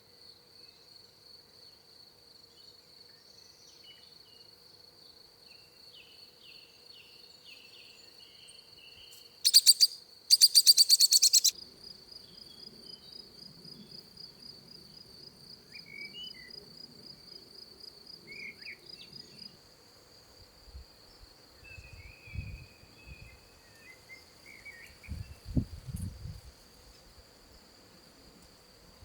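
Outdoor nature ambience: an insect, cricket-like, trills steadily on one high pitch while birds give scattered short chirps. About ten seconds in, a loud, rapid, buzzing rattle sounds twice, for a second or two each time. Low thumps come and go near the end.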